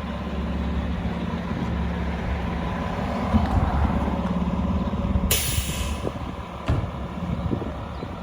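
Fire engine's diesel engine running, with a short hiss of the air brakes releasing about five seconds in and a single knock shortly after.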